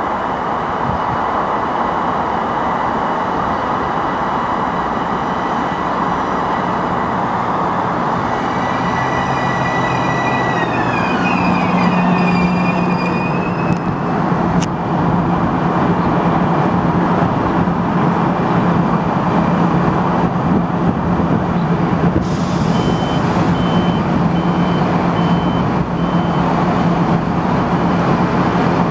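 Metro-North commuter train running through the station with a loud, steady rumble; a whine from its motors falls in pitch about ten seconds in, then a low hum holds steady. A short run of evenly spaced high beeps sounds about two-thirds of the way through.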